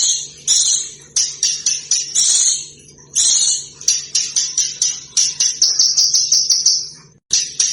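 Small songbird singing a dense, high-pitched song of sharp chirps and rapid notes. From about five seconds in, it repeats one piercing note about four times a second. A brief cut to silence comes near the end.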